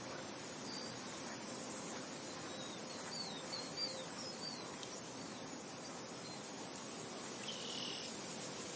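Steady wind noise with a few faint, short, high chirps about three to four seconds in and a brief high trill near the end.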